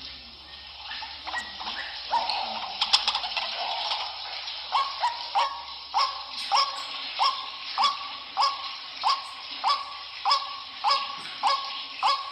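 White-breasted waterhen calling: a jumbled chatter of notes, then from about four seconds in a steady run of repeated 'kruak' notes, about one and a half a second.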